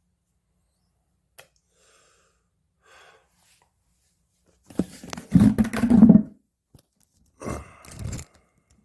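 A Jindo dog making rough, noisy breath sounds: faint rustles at first, then a loud burst about five seconds in that lasts over a second, and a shorter one near the end.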